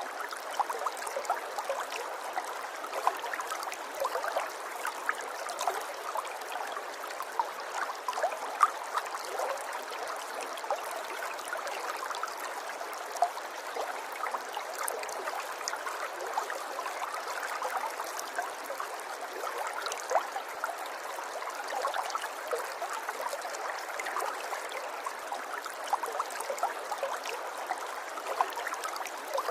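River water flowing steadily, with a constant babble and many small trickling splashes.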